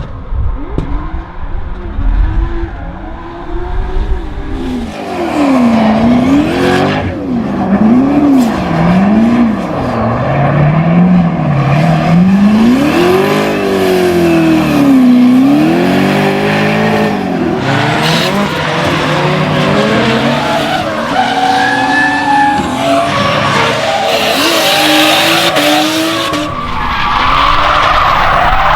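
Toyota Supra MK4's turbocharged 2JZ straight-six revving up and down again and again through a drift, with tyres skidding and squealing on the tarmac.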